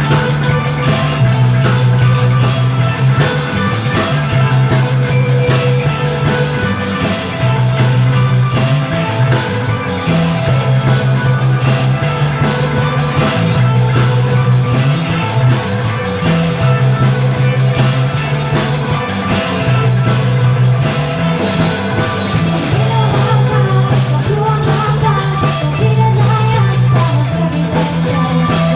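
A rock band playing live. The drum kit keeps a fast, steady beat under electric guitars, and the bass repeats a short riff.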